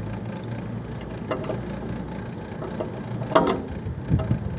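Adjustable wrench working the nut that holds the fan blade on an AC outdoor unit's motor shaft: scattered light metal clicks and one sharp click a little over three seconds in, over a steady low hum.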